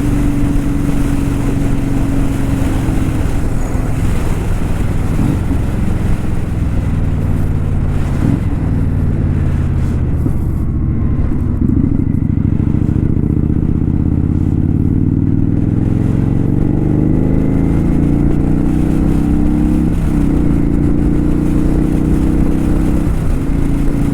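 Kawasaki Vulcan 900 V-twin motorcycle engine running under way, its pitch stepping down and climbing again several times as the bike accelerates and changes gear.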